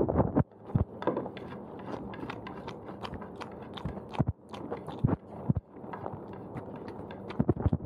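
A person chewing a mouthful of fried udon noodles with egg, close to the microphone: a steady run of wet mouth clicks and smacks, with the tail of a louder slurp in the first half-second.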